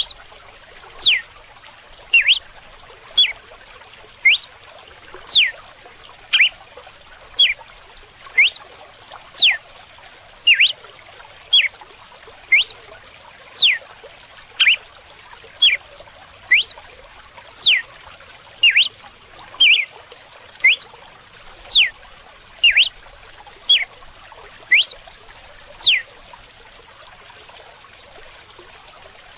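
Red-cowled cardinal singing its 'açoite' (whip) song: a run of sharp, quick whistled notes, mostly steep downward sweeps, about one a second, stopping a few seconds before the end. Running water trickles steadily underneath.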